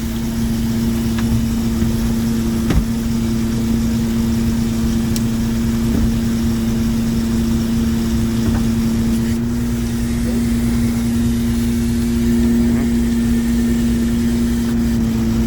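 A small fishing boat's engine running steadily at a constant speed, a continuous even hum, with a couple of faint knocks early on the deck.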